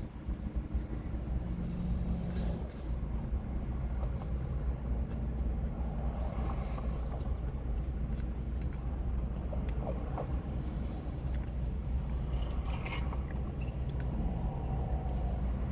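A steady low rumble under small scattered clicks and rustles of someone eating.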